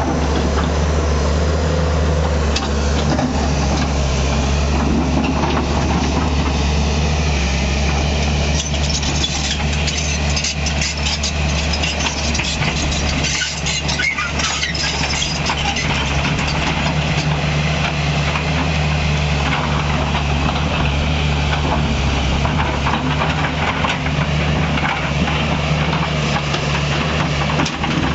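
Tata Hitachi EX 200 LC Super hydraulic excavator's diesel engine running steadily, with a spell of knocks and clatter in the middle.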